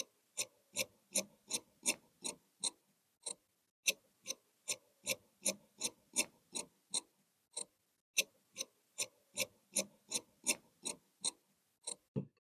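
Tailor's shears cutting cloth: sharp, evenly spaced snips about three a second, in three runs with short pauses between them, then a low knock near the end.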